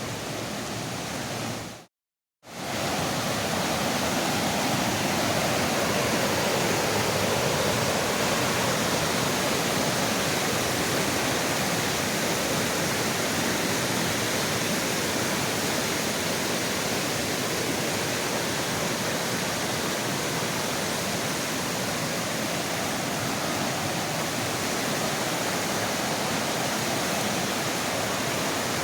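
Rain-swollen mountain creek rushing in a steady roar of high water after heavy rain. It cuts out for under a second about two seconds in, then comes back a little louder.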